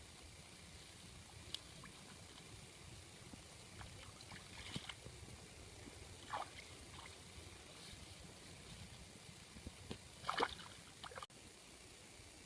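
Water sloshing and splashing in a few short bursts, the loudest about ten seconds in.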